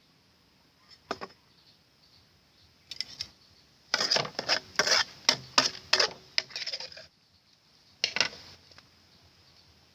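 Kitchen utensils knocking and clinking. There is a single knock about a second in and a pair near three seconds, then a quick, irregular run of sharp knocks for about three seconds, and one more knock near the end.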